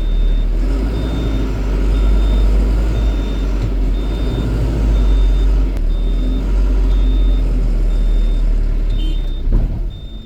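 LPG truck reversing, its engine running with a strong low rumble while the reversing beeper sounds a short high beep a little more than once a second. Near the end there is a brief loud peak and the engine noise drops off.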